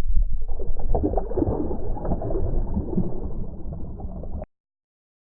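Muffled water sloshing and gurgling around a striped bass being held in the water to revive it, with heavy low rumble. It cuts off abruptly near the end.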